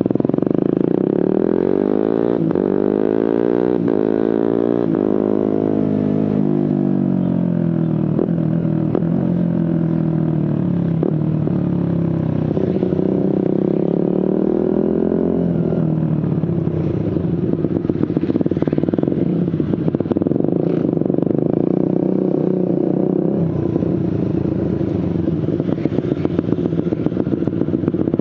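Suzuki GSX-R150's single-cylinder engine running through an aftermarket Prospeed exhaust while riding. Its pitch falls over the first few seconds, broken by a few short jumps at the gear changes. It rises again around the middle and then holds fairly steady.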